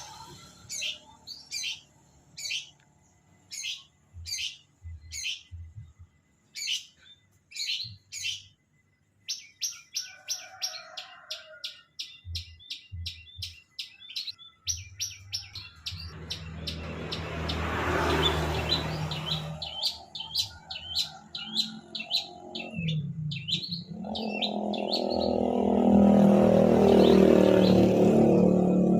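Long-tailed shrike (cendet) singing: a string of sharp, evenly spaced high notes, then a fast chattering run about nine seconds in. From about halfway a louder low rumble with a hum rises under the song.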